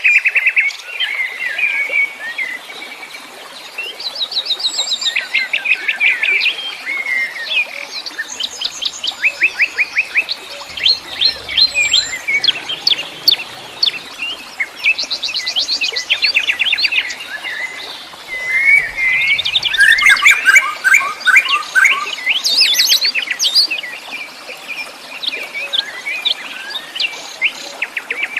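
Several wild songbirds singing at once, a busy chorus of rapid chirping trills and short repeated phrases, thickest about two-thirds of the way through.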